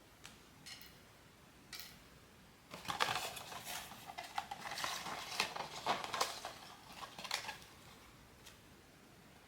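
Hands handling blind-box packaging and small plastic pieces: a few light clicks, then from about three seconds in several seconds of dense, irregular rustling and clicking that dies away at about seven and a half seconds.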